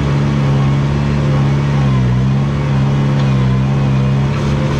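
Rubber-tracked Komatsu bulldozer's diesel engine running steadily under load, its pitch dipping briefly about two seconds in as it lugs down and then recovering.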